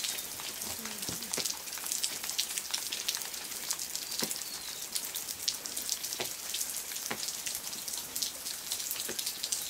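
Steady rain, with many separate drops heard as sharp ticks.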